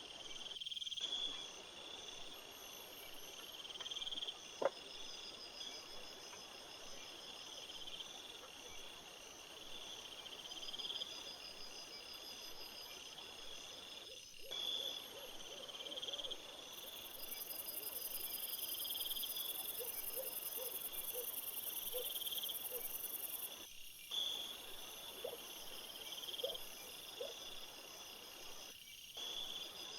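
Crickets and other night insects chirping in a steady pulsing chorus, joined by a higher continuous trill from about 17 to 23 seconds in. There is a single faint click about four seconds in.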